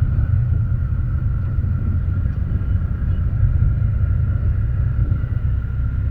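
Motorcycle riding on a road: steady low rumble of engine and wind buffeting the microphone, with a faint steady whine above it.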